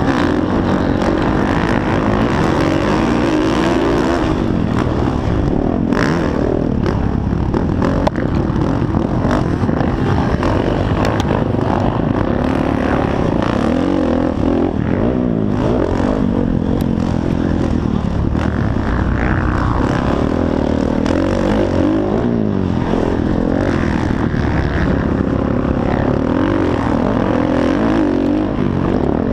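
Motocross bikes racing, their engines revving up and down without a break.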